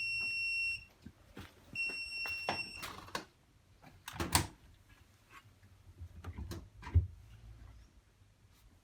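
Bosch Vario Perfect washing machine's electronic signal beeping: two long, high beeps about a second apart, its end-of-programme signal. These are followed by scattered clicks and knocks, with a sharper knock about seven seconds in.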